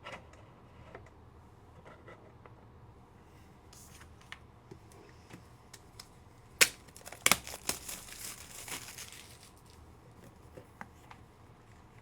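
Card packaging crinkling and tearing as a card is unwrapped, with scattered small clicks and a dense run of sharp crackles in the middle.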